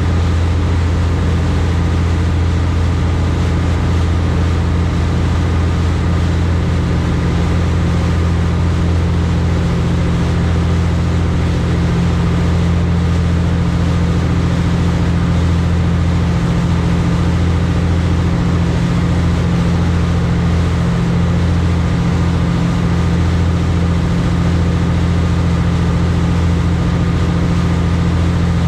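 High-speed passenger boat's engines running steadily, a loud low drone with several steady humming tones.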